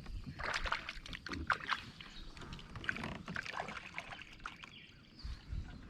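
Irregular small clicks, knocks and splashes of water around a fishing kayak, over a low rumble.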